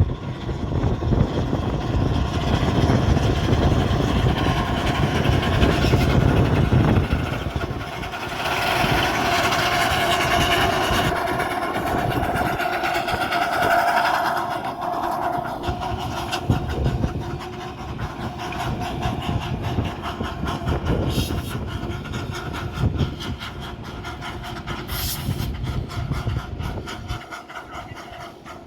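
Small light-railway locomotive and its train running along the track, loud and rumbling at first. A high steady tone sounds for several seconds mid-way, then the running sound fades away near the end.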